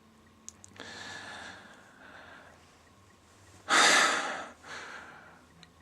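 A man breathing out hard several times, with the loudest and longest breath about four seconds in.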